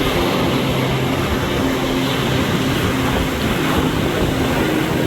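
Strong storm wind blasting across the microphone: a loud, steady rushing roar with a low rumble, no let-up.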